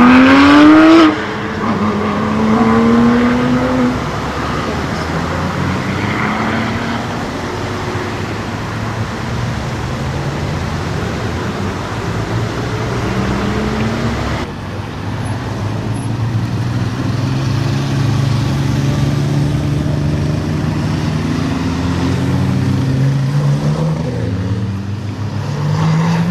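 Porsche sports car engines pulling up hairpin bends, their pitch rising with each acceleration. The rev in the first second is loud and rising. Near the end several engines sound together as cars pass close by.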